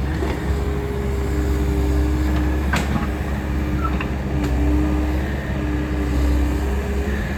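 Takeuchi machine's diesel engine running steadily under load, with a steady hydraulic whine that shifts in pitch as it works clearing trees. A couple of sharp cracks or knocks sound about three and four and a half seconds in.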